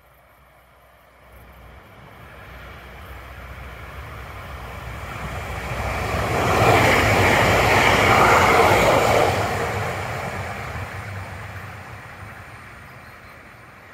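Electric multiple-unit passenger train passing by on an electrified double-track line. Its running noise builds from faint, is loudest as it passes about seven to nine seconds in, then fades as it moves away.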